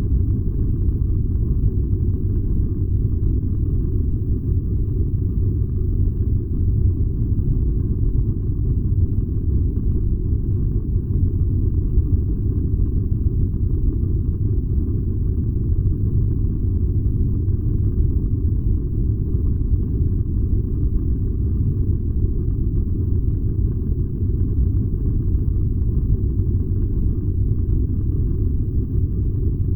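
Furnace burning with a steady low rumble, even and unchanging, with no crackles or knocks.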